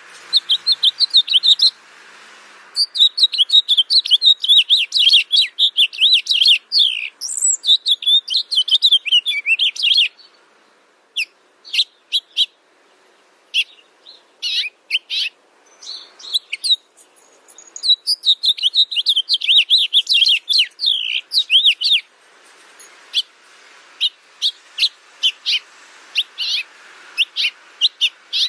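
Songbird chirping in fast, dense trills of high notes, in long runs broken by stretches of scattered single chirps, over a faint background hiss.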